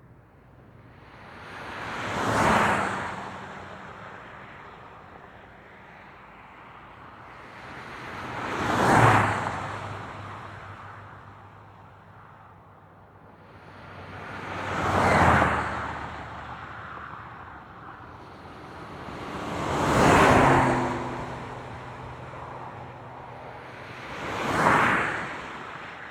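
Highway traffic: five vehicles pass one at a time, each a tyre-and-wind whoosh that swells and fades over a couple of seconds. Between the pass-bys there is a low steady rush of distant traffic, and a faint engine hum trails some of the vehicles.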